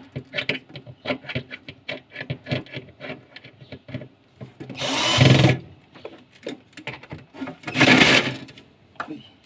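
Small clicks and rattles of parts being handled, then a power drill driving screws in two runs of about a second each, near the middle and about eight seconds in, tightening the refrigerator's fittings.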